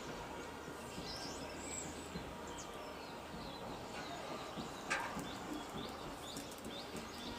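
Small birds chirping and calling in short, repeated high notes over a steady outdoor background hiss, with one sharper, louder sound about five seconds in.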